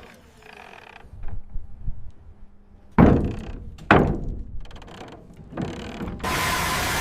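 Motors and gearing of a radio-controlled construction model working: scattered small mechanical clicks, two loud thunks about three and four seconds in, then a steady whirring hiss from about six seconds on.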